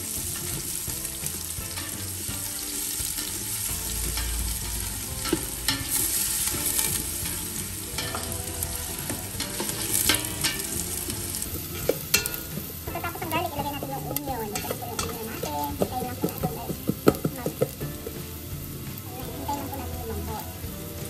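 Chopped garlic and onion sizzling in hot oil in a stainless steel pot, stirred with a spatula. The spatula scrapes and clicks against the pot, the scrapes getting busier about halfway through.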